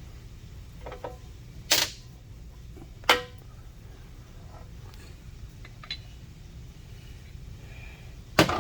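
Steel parts clinking and knocking against each other as a keyway broach and its bushing are handled and set up. Scattered sharp clinks, the loudest a little under two seconds in, about three seconds in and near the end, over a steady low hum.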